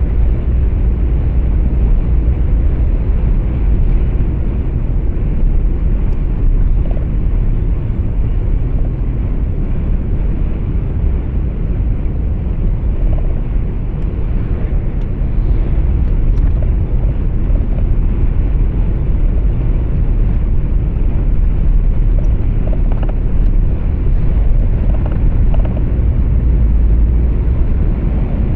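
Truck engine and road noise heard inside the cab while driving: a steady low rumble with a hiss above it, even throughout.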